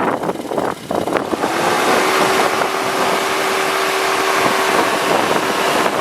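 Pickup truck's 3.5-litre V6 running, with a steady tone held from about a second and a half in until near the end, and wind buffeting the microphone.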